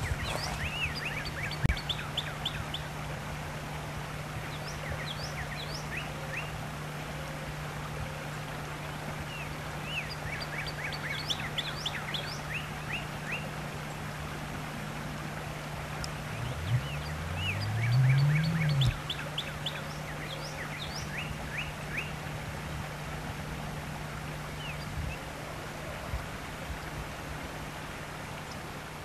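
A songbird singing short phrases of quick chirps, repeated every few seconds, over a steady low hum. About 17 seconds in, a louder hum rises in pitch and cuts off suddenly near 19 seconds.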